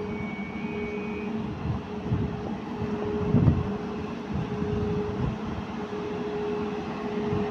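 CP Series 2300 electric multiple unit running past along a station platform: a steady motor hum over the rumble of wheels on the rails, with a heavier thud about three and a half seconds in and a faint high whine in the first second.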